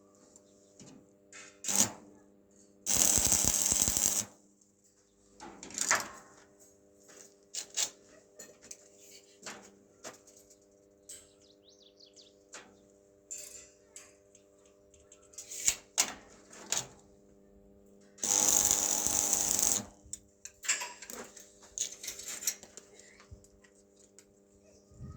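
Metalworking sounds: scattered clicks and knocks of metal parts being handled, with two loud bursts of a power tool, each about a second long, early on and about two thirds through, over a steady hum.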